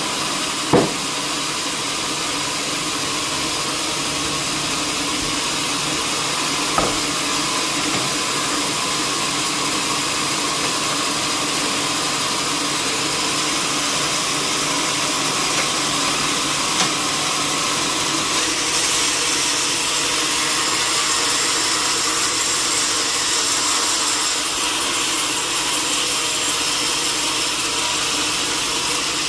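Sawmill saw running steadily through wood, with two sharp knocks about a second in and about seven seconds in.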